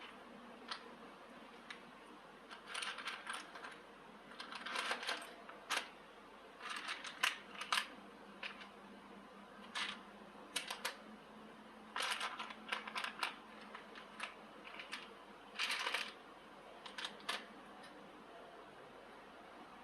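Intermittent clinks and clatters of hard objects being handled, coming in short clusters with pauses between, over a faint steady hum.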